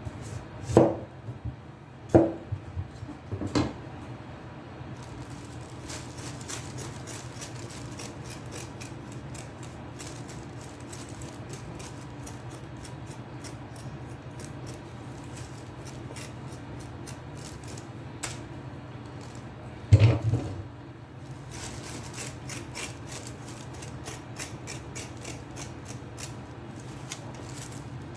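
Kitchen knife work on a wooden cutting board: three heavy chops in the first few seconds, then a long run of small, quick cutting and scraping strokes. Another heavy chop comes about 20 seconds in, and the fine scraping carries on after it.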